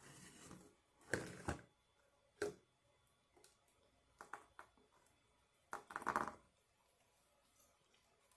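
Eating and food-handling sounds: a handful of short crunches and clicks. The loudest come as a pair a little after one second and as a cluster around six seconds.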